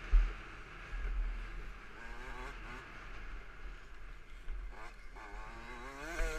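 KTM 65 SX single-cylinder two-stroke engine revving up and down repeatedly as the bike is ridden hard on a motocross track, with a sharp thump just after the start.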